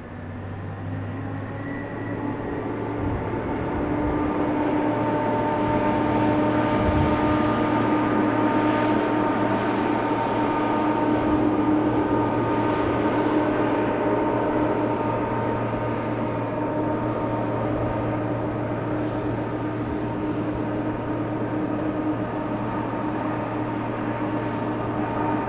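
Jet airliner engines running with a steady whine made of several held tones over a low hum. It swells over the first few seconds and then holds.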